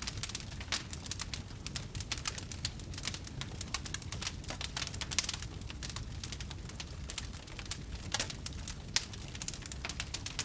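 Wood campfire crackling, with frequent irregular sharp pops and snaps over a steady low rumble of the flames.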